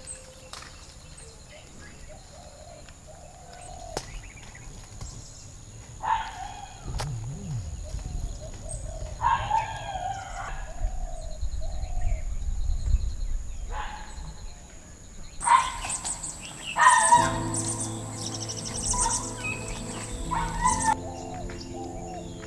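Birds chirping and calling in short scattered phrases over a steady high thin tone, with soft background music coming in about three-quarters of the way through.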